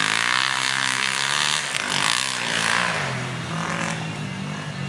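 Motocross motorcycle engines revving up and down, growing somewhat fainter over the last couple of seconds.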